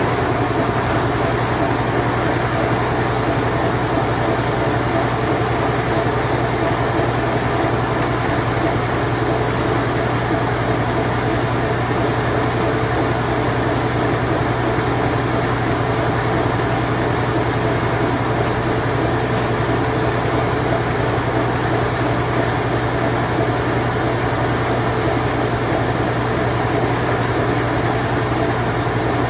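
Late-1980s Whirlpool Imperial Clean Touch washing machine running its spin cycle: a steady, even hum with a constant low tone.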